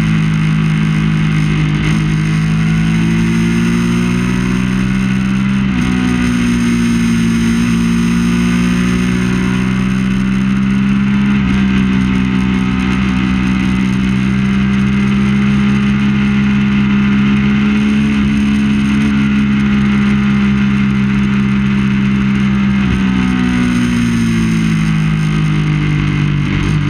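Triumph Daytona 675's three-cylinder engine running hard at high revs, heard from on board the racing motorcycle. The note holds mostly steady, jumps up in pitch twice and sinks back after each, with wind noise underneath.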